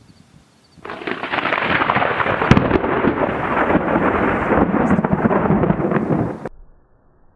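Severe thunderstorm noise: a loud, dense rushing and crackling that starts about a second in, holds steady, and cuts off abruptly near the end.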